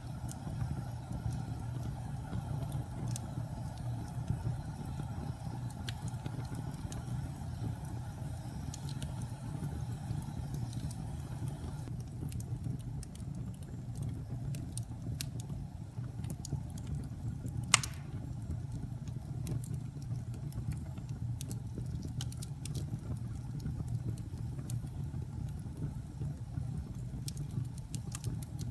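Wood fire burning in a fireplace: a steady low rumble of flames with scattered small crackles and pops, and one sharper, louder pop a little past halfway.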